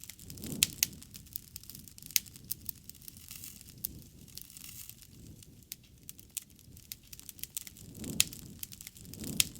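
Wood fire crackling: irregular sharp pops and snaps over a soft low rush of burning, which swells about half a second in and again twice near the end.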